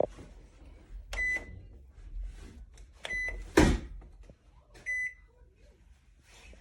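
Comfee countertop microwave's keypad beeping three times, short high beeps about two seconds apart, with a loud thump just after the second beep and a few softer clicks and knocks around them.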